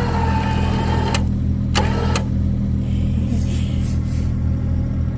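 Pickup truck engine idling steadily, with a motor whine, most likely the truck's electric winch pulling on the skid steer, for about the first second that cuts off with a clunk. A couple more clunks follow around two seconds in.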